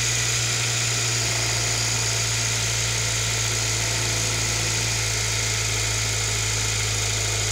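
2008 Honda Civic Si's 2.0-litre four-cylinder engine idling steadily with a low hum, its accessory belt and crankshaft pulley turning. The owner suspects the crankshaft pulley is bad.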